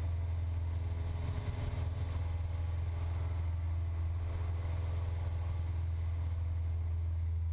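Cessna 172's piston engine and propeller droning steadily in flight, a constant low hum with fainter steady tones above it.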